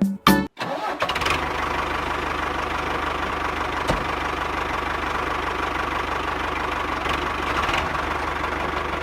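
Small motor of a DIY miniature tractor running steadily, starting about half a second in, with a fast, even pulse.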